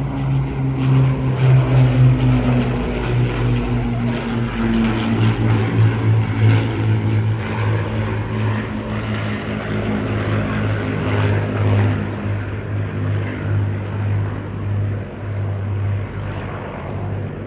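Piston-engined wartime warbirds of the Battle of Britain Memorial Flight, Lancaster bomber with Spitfire and Hurricane fighters, flying over with a loud, throbbing propeller-engine drone. The pitch drops in the first few seconds as they pass, then holds steady.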